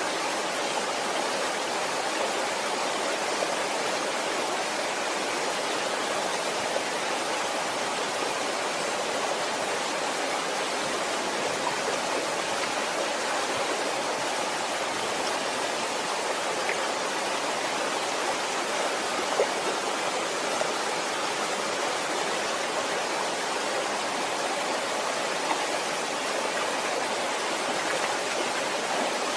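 Waterfall: a steady rush of falling water, unchanging throughout, with a few faint splashes or ticks.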